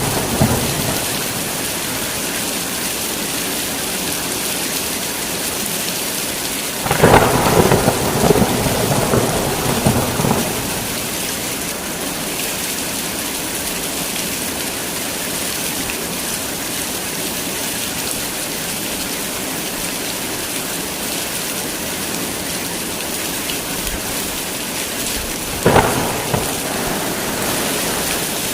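Steady heavy rain, with thunder: a loud clap that rumbles on for a few seconds about a quarter of the way in, and a shorter crack near the end.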